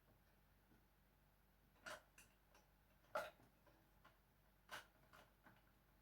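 Faint, irregular clicks and light knocks of kitchen work, such as a knife or utensils against a cutting board or container, with three louder knocks about a second and a half apart.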